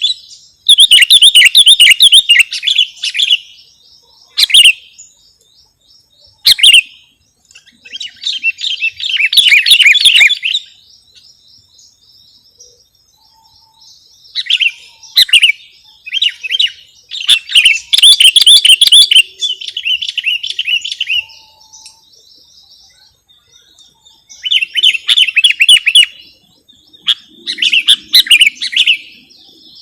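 Sooty-headed bulbul (kutilang) song: loud bursts of rapid, chirping phrases, each a second or two long, repeated with short pauses between them.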